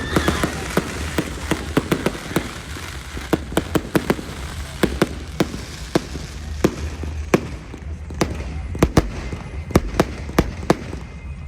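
Fireworks display: a run of irregular sharp bangs and pops over a low rumble.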